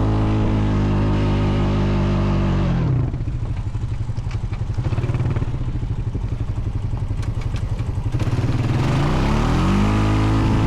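Honda Foreman 520 ATV's single-cylinder engine running at steady revs, dropping to a slow, pulsing idle about three seconds in, then revving back up near the end.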